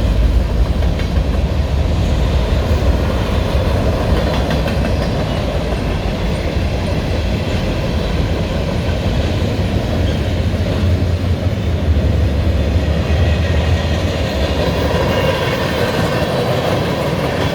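Freight cars of a mixed manifest train rolling past, with a steady, loud rumble of steel wheels on the rails.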